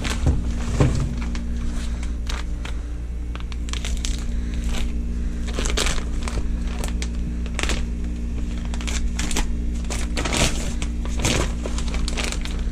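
Packaging crinkling and rustling, with scattered clicks and knocks as kit parts are handled, over a steady low hum.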